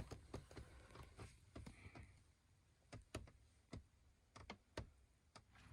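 Near silence with faint, scattered clicks and light taps, about a dozen, at uneven intervals.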